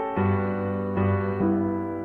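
Piano music: a soft instrumental intro with a few chords struck and held under a low bass note.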